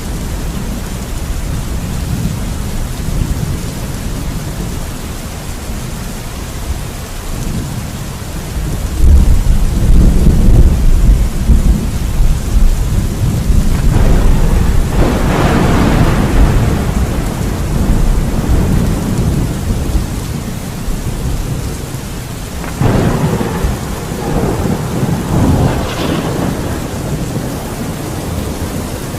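Thunderstorm: steady rain with rolling thunder. A deep rumble swells up about a third of the way in, followed by sharper crackling thunderclaps around the middle and again near the end.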